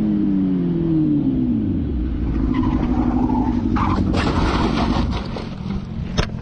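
Motorcycle engine running with its pitch dropping over the first two seconds as it slows, then a harsh burst of noise lasting over a second about four seconds in, the sound of the crash.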